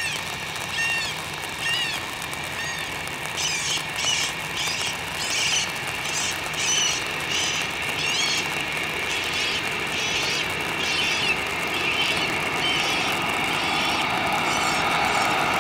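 A bird calling over and over with short chirps, about two a second, over a steady hiss. Over the last few seconds the engine noise of an approaching jet airliner grows louder.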